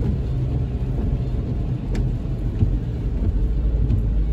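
Steady low rumble of a car's engine and tyres heard from inside the cabin while driving at an even speed.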